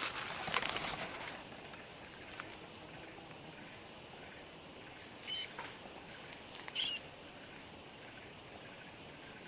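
Steady high drone of forest insects, with rustling in the first second and two short, sharp, high bird chirps about five and seven seconds in.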